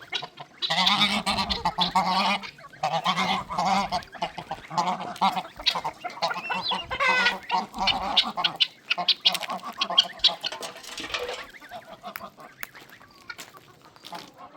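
Domestic fowl calling repeatedly, one call after another for about ten seconds, then fading near the end.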